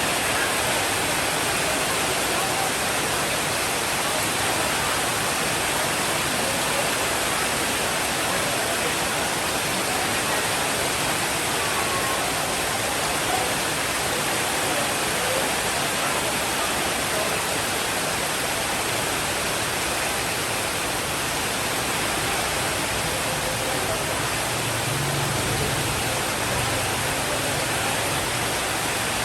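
Steady, even rain noise with no breaks. Near the end a soft low rumble of distant thunder swells briefly beneath it.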